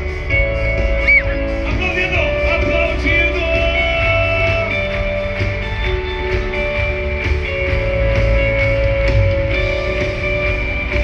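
Live worship music from a band: a steady bass, held notes and a singing voice gliding in pitch near the start.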